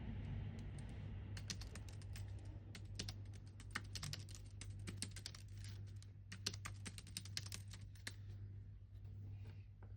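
Typing on a computer keyboard: quick runs of keystroke clicks starting about a second in, thinning out near the end, over a steady low hum.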